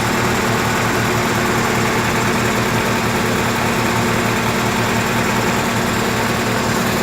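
An engine idling steadily, its hum even throughout.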